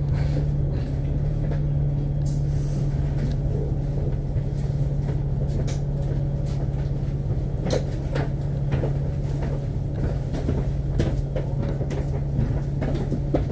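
Inside a double-decker bus, an Alexander Dennis Enviro500 MMC: the engine keeps up a steady low drone while cabin fittings give off frequent short rattles and clicks.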